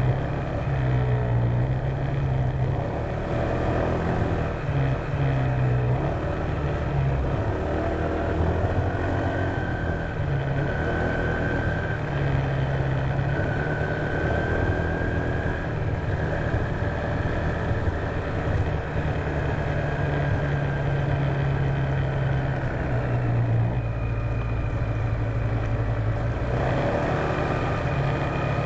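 Honda PCX150 scooter's single-cylinder four-stroke engine running at speed, its note shifting up and down a little with the throttle, over a steady rush of riding noise.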